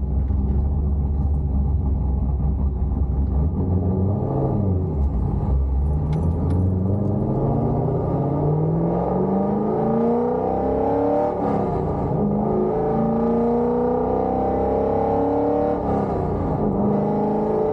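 Cammed C5 Corvette Z06's LS6 V8 with headers and Borla ATAK mufflers: a low, steady exhaust note for the first few seconds, then the engine pulls up in pitch under acceleration, the pitch dropping sharply at gear changes about eleven and sixteen seconds in before it settles to a steady cruise.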